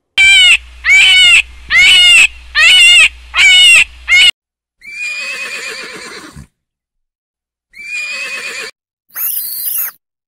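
Horses whinnying: a run of five short, loud, evenly spaced calls, then a longer neigh that drops in pitch, another call, and a short, shrill squeal near the end.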